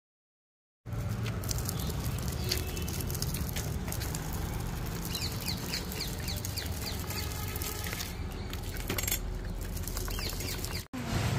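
Birds chirping in short, falling high calls over a steady low rumble.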